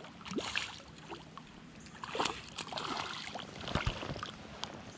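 Creek water splashing and sloshing in irregular bursts, the loudest about two seconds in.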